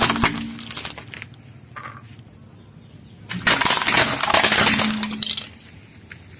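Items crushed and breaking under a car's tyre: a crunching, cracking burst at the start, then a longer bout of crunching and breaking from about three and a half seconds to five and a half.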